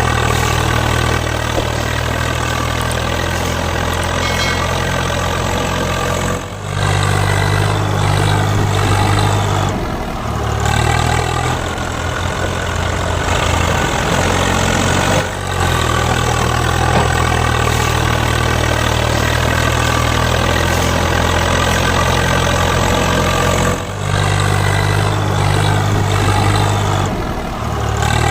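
Tractor engine idling steadily. The sound breaks off abruptly and picks up again several times.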